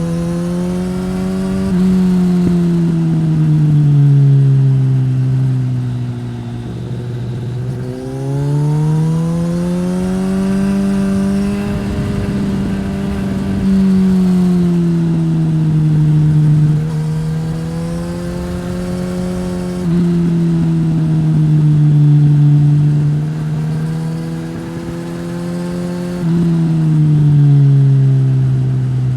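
Suzuki GSX-S1000 inline-four engine through a Yoshimura R-11 slip-on exhaust under way. Its revs climb and fall repeatedly as the throttle is opened and closed, with sudden jumps in loudness each time the throttle comes back on.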